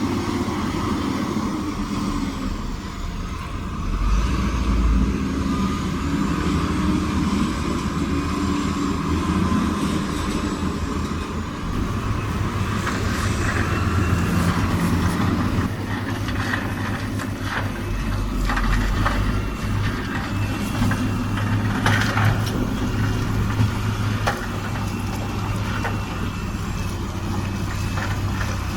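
Heavy diesel earthmoving machinery running steadily under load, with scattered knocks and rattles through the second half.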